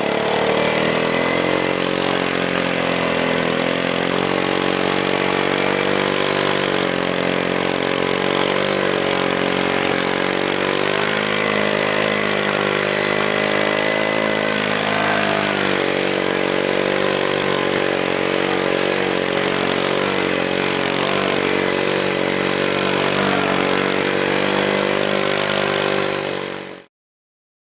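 Quad bike engine running continuously, its pitch rising and falling a little several times as the revs change, then cutting off suddenly near the end.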